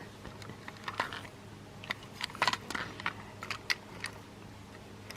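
Scattered faint clicks and small crackles, like a plastic toy engine being handled and turned over.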